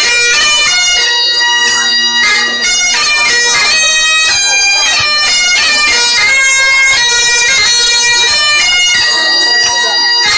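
Bagpipes playing a tune: a melody of quickly changing notes over a steady drone.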